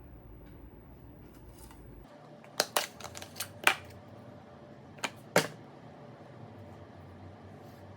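Six sharp clicks or taps, some in quick pairs, between about two and a half and five and a half seconds in; a low hum cuts off just before them.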